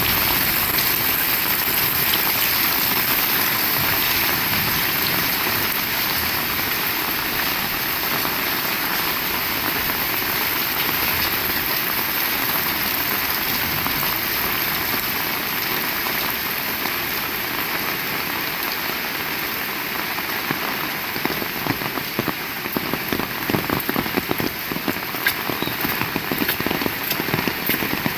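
Heavy rain falling steadily. From about three quarters of the way in, close, sharp drop hits come thick and fast over the steady rain.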